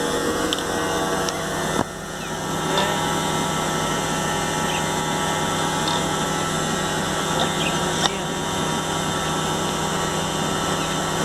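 A steady mechanical drone with a constant hum, with a few faint short high chirps and a single sharp click about eight seconds in.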